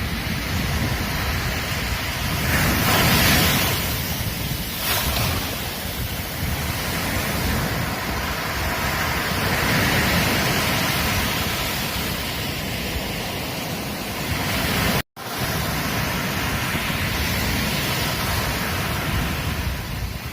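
Ocean surf washing on a beach, a steady rush that swells as waves break, with a low wind rumble on the microphone. The sound cuts out for a split second about 15 seconds in, then resumes.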